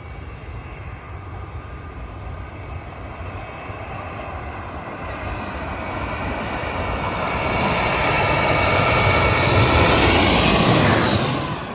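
Jet airliner passing low overhead. Its engine noise and whine grow louder over about ten seconds to a peak, then drop off sharply near the end as the whine falls in pitch.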